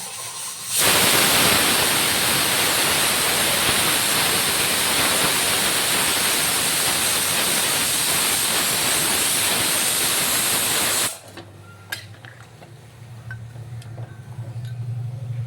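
Loud steady hissing that starts suddenly about a second in and cuts off abruptly after about ten seconds, followed by a few light clicks.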